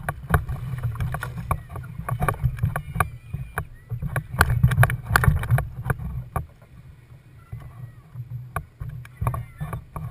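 Knocks and clatter on a fishing kayak over a low rumble. The knocks come thick for about the first six seconds, then thin out and grow quieter, with a few more near the end.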